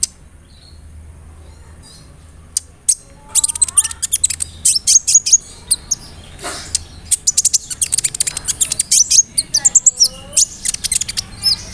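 Kolibri ninja (konin) sunbird singing. After a quiet start, a rapid, dense run of high chirps and trills begins, mixed with lower downward-slurred notes.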